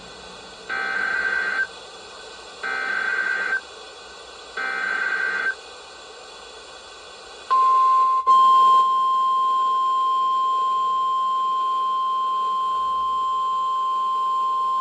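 NOAA Weather Radio emergency alert played through a CB radio's weather band. Three short warbling bursts of the SAME digital data header come first, about a second apart, then the long steady 1050 Hz warning alarm tone, with a click shortly after the tone starts. This sequence announces a new warning, here a tornado warning.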